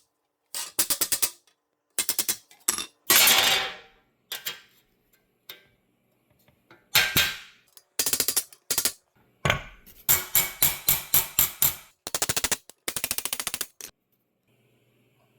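Bursts of rapid, evenly spaced mechanical tapping, about ten strikes a second, stopping and starting every second or so, with a longer rough burst about three seconds in.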